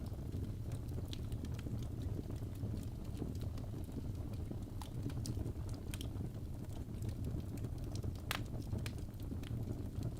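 Birch logs burning in a fireplace: a steady low rumble of flame, with irregular sharp crackles and pops. The loudest pop comes about eight seconds in.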